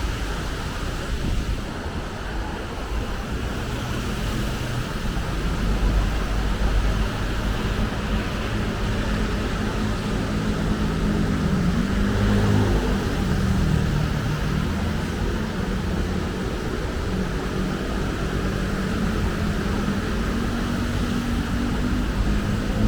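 Steady city road traffic: continuous tyre and engine noise, with heavier engines humming through it about twelve seconds in and again near the end.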